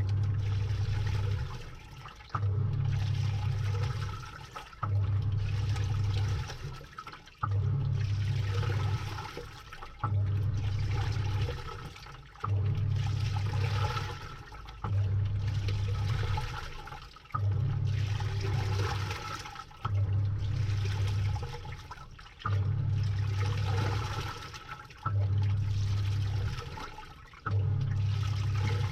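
Samsung top-load washing machine agitating a load, heard from inside the drum: the pulsator motor hums in strokes of about two seconds, roughly every two and a half seconds, with water sloshing through the laundry and dying away between strokes.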